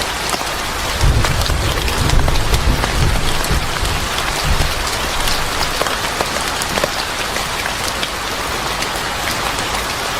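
Steady heavy rain on a surface with many scattered sharp crackles. A low rumble rises about a second in and fades after a few seconds.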